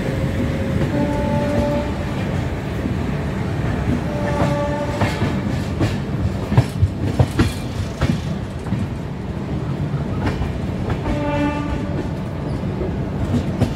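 Passenger train running with a steady rumble. Wheels clatter over rail joints around the middle, and a train horn gives short blasts about four seconds in and again near eleven seconds.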